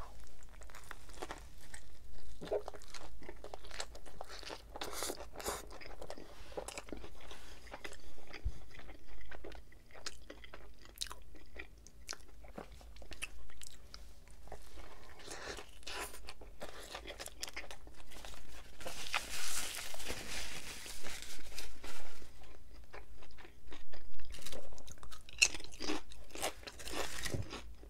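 Close-miked biting and chewing of a Subway B.M.T. sandwich on Italian herb and cheese bread, filled with double meat, lettuce, pickles, onion and peppers. Many short crackling mouth sounds, with a stretch of breathy hiss about twenty seconds in.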